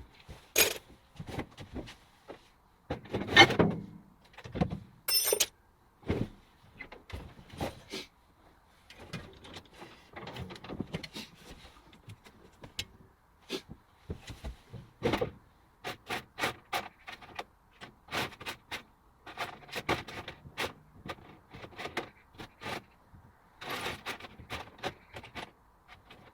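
Irregular clicks, knocks and scrapes of parts and tools being handled at a lathe, with no motor running.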